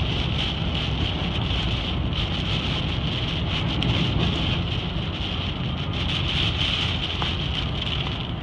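Steady road and engine noise inside a moving car in a thunderstorm, with a constant hiss of wind and rain.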